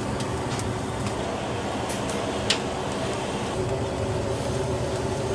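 Steady mechanical hum with a single sharp click about two and a half seconds in.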